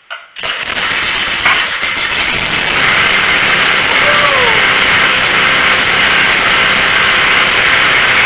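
Gasoline engine of a new Tacklife pressure washer starting on choke on its first start. It catches within half a second of a pull on the recoil starter and then runs loud and steady.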